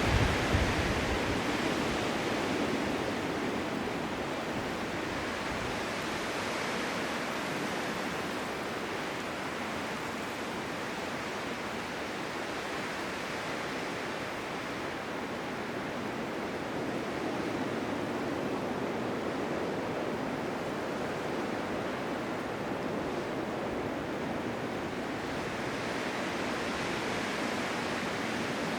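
Blizzard wind: a steady rushing hiss that swells and eases slowly, with a brief louder low gust at the very start.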